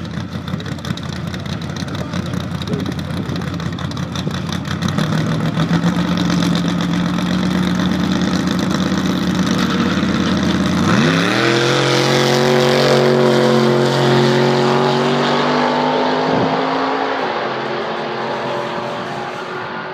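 Drag race cars' engines, among them a V8, running at the start line, then rising sharply in pitch about eleven seconds in as they launch and run at high revs, fading near the end.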